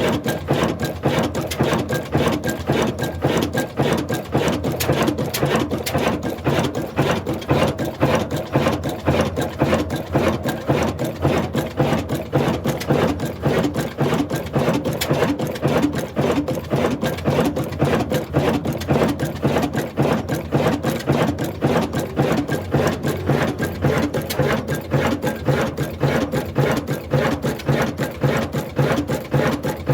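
Old stationary diesel 'black engine' running at a steady speed with a fast, even beat that does not change.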